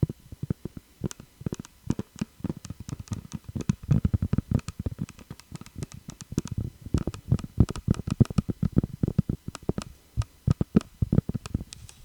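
Fingers tapping on a hard object in quick, uneven flurries of taps, several a second, each with a dull knock and a sharp click.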